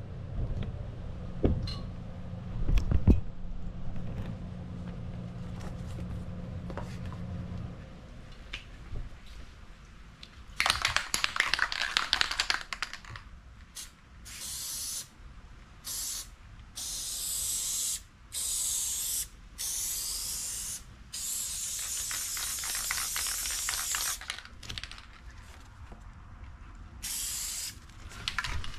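Aerosol spray adhesive can spraying in a series of hissing bursts, some short and some several seconds long, as glue is laid on for the foam deck flooring. Before the spraying starts there are a few knocks and a low steady hum.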